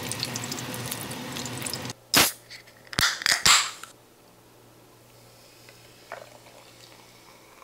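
Whole beef large intestines (daechang) sizzling and crackling in a frying pan, stopping about two seconds in. Then comes a sharp click and a quick cluster of cracks as a drink can is handled and opened. After that there is a faint fizz as it is poured over ice into a glass mug.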